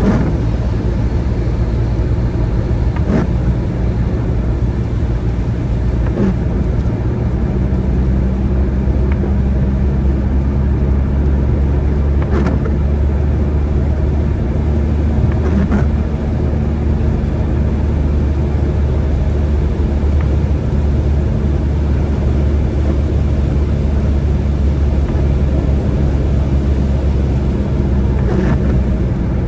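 A car driving along, its engine and tyres making a steady low hum and road noise, with a few faint, irregular clicks.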